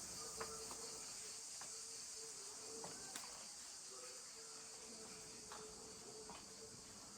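Insects chirping in a steady, faint, high-pitched chorus, with a few light clicks.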